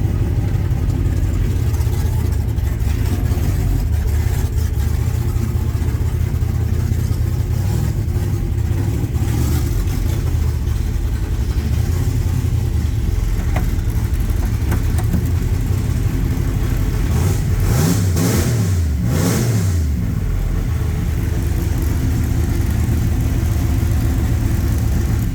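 Carbureted Camaro engine running steadily on a drive. Its pitch rises and falls a few times about two-thirds of the way through as it revs up and down.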